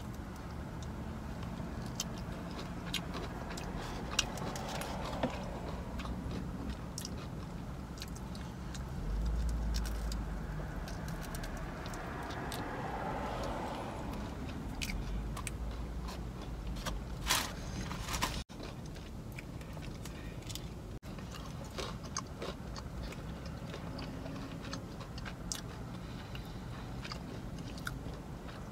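A person chewing and biting crunchy breaded fried food, chicken tenders and butterfly shrimp, with scattered small crunches and mouth clicks throughout. A low rumble swells twice around the middle.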